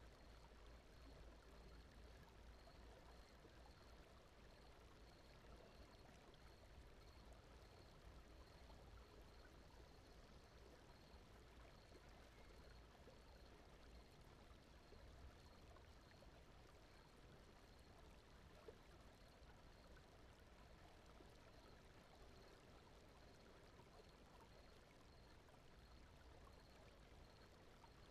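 Faint, steady brown noise, a soft even rushing with most of its weight in the deep low end.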